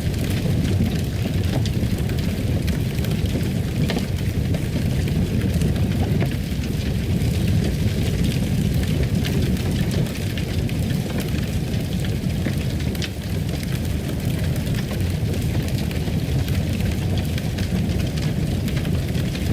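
Fireplace ambience: a steady low rumble of burning wood with many small scattered crackles and pops.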